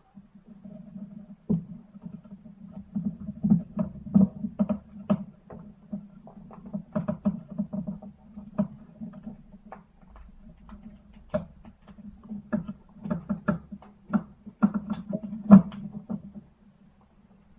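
Irregular clicks and knocks of small tool parts being handled and set down on a workbench, over a steady low hum.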